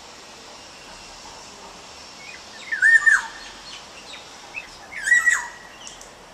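A wild bird calling: two loud calls about two seconds apart, each a short held note that drops sharply at its end, with softer short chirps between them.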